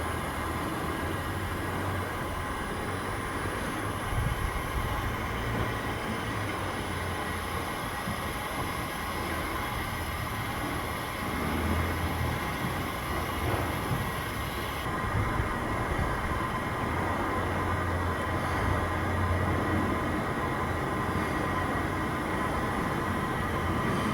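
Steady mechanical drone of heavy machinery, with a low hum and faint steady whining tones, swelling a little at times.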